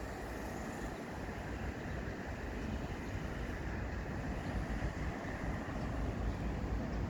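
Wind buffeting the microphone on a moving motorcycle, with a low, unsteady rumble that grows slightly louder near the end.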